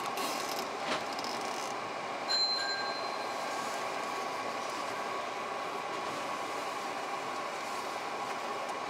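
Hankyu 6300-series electric train running, heard from the front cab: a steady rumble of wheels and running gear. There is a click about a second in and a brief high-pitched tone a little after two seconds.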